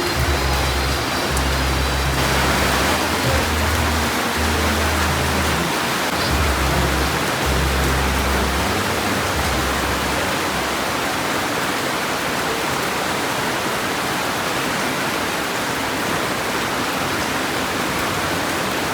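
Heavy rain pouring down, a steady dense hiss. Low bass notes of background music play under it for about the first half.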